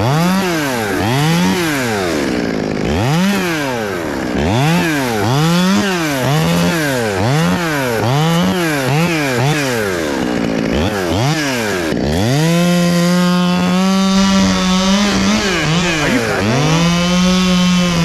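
Two-stroke top-handle chainsaw, a Stihl MS 201, revved in quick throttle blips about once a second for some twelve seconds. It is then held at high revs for a few seconds at a time, twice.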